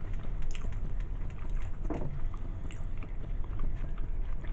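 Close-miked chewing and biting of a Subway sandwich, with many small wet mouth clicks over a steady low microphone rumble.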